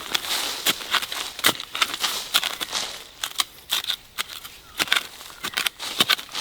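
Dry leaf litter rustling and crackling, with many irregular sharp snaps and crackles.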